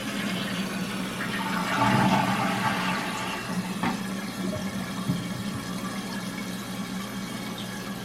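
Toilet flushing through a newly installed flush valve: water rushing out of the tank and down the bowl, swelling about two seconds in, then a steady hiss of the tank refilling. A single sharp click about four seconds in.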